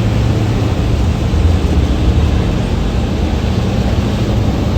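Thames Clipper river catamaran under way: a steady low engine rumble and hum with an even rushing noise of water and air over it.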